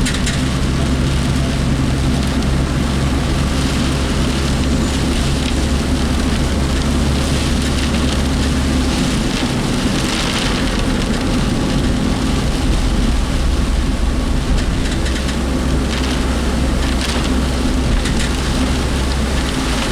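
Heavy typhoon rain drumming on a moving work vehicle, heard from inside the cabin, over steady engine and road noise and the rattling of the work vehicle. The low engine drone changes about nine seconds in.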